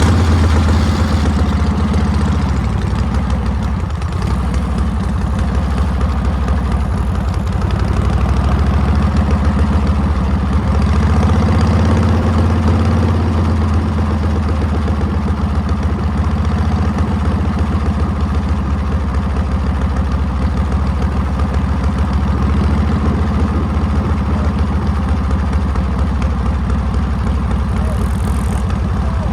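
Harley-Davidson Panhead V-twin engine running, heard close up from a phone mounted on the bike's sissy bar. The engine note swells around a second in and again from about ten to fourteen seconds in.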